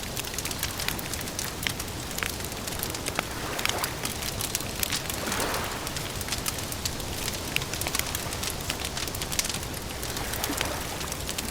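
Wood campfire crackling, with frequent sharp pops and snaps over a steady low hiss.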